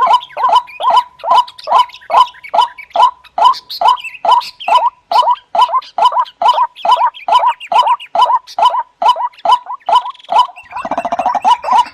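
White-breasted waterhen (ruak-ruak) calling over and over, a recorded lure call of quick, even croaking notes, about three a second. Near the end a harsher, denser layer of calls joins in.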